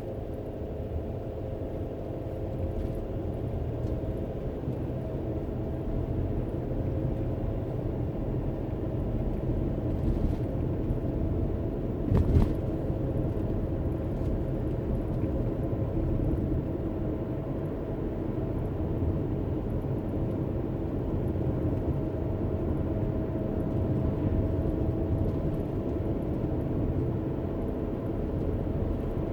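Car cabin noise while driving: a steady low rumble of engine and tyres on the road, growing a little louder over the first few seconds. One brief knock about twelve seconds in.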